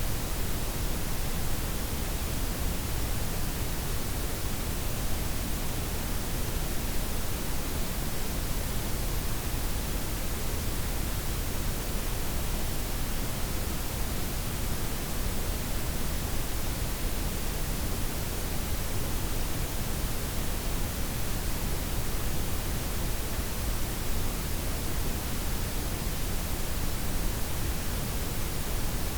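Synthetic layered white, pink and brown noise, a steady even hiss with a deep rumble underneath and softened highs.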